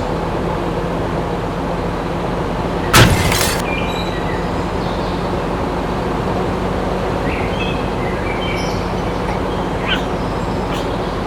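Steady mechanical hum, with one loud sharp crack about three seconds in and short bird chirps in the later seconds.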